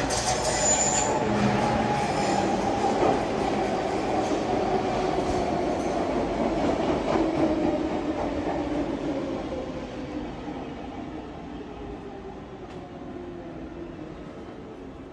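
A train running past, a rumbling noise with a whine that slowly falls in pitch and fades away over the second half.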